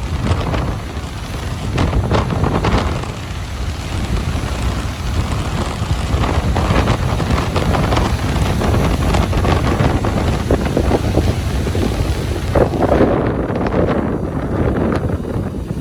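Ocean surf washing onto a beach, with strong wind buffeting the microphone and adding a heavy low rumble.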